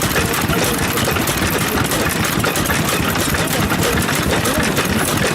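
Vintage stationary engine running steadily, with a rapid, even run of firing strokes.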